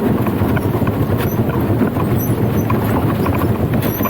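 Steady clattering rumble of a danjiri festival float being hauled along the street, its rolling wheels and the pullers' steps making a dense run of small knocks.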